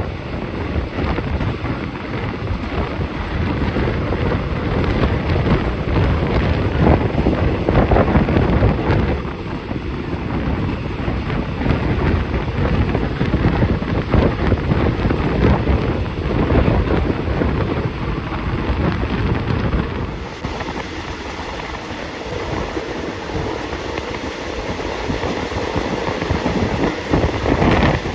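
Loud, steady rush of wind buffeting the phone's microphone, with the low rumble of a moving passenger train underneath. The rumble eases a little about twenty seconds in.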